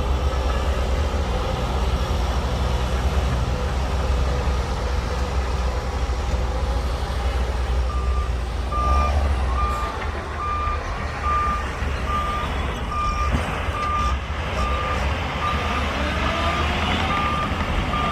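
Heavy diesel machinery running steadily with a low rumble. About halfway through, a reversing alarm starts beeping at an even pace, a little over once a second, as a machine backs up.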